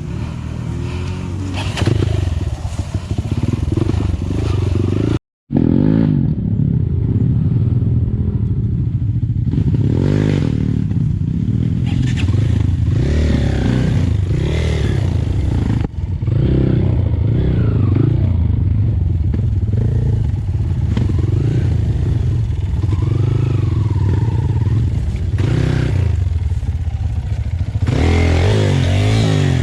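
Dirt bike engine revving up and down over and over, its pitch rising and falling as it works under load. The sound cuts out for a moment about five seconds in.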